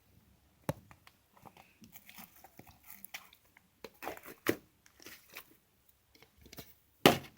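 Opaque fluffy slime being kneaded and stretched by hand, making irregular squelches, sticky pops and crackles, with the loudest pop near the end.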